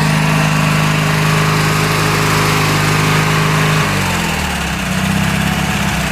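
Bolens garden tractor engine running steadily at high speed, then throttling down about four seconds in and settling to a lower, slower idle. The engine runs smoothly.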